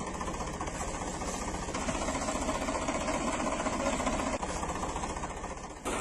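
A motor running steadily, dipping briefly just before the end.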